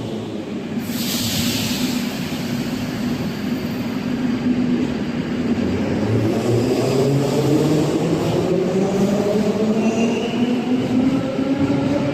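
Moscow Metro train: a short burst of air hiss about a second in, then the electric traction motors' whine rising steadily in pitch as the train picks up speed from about six seconds on.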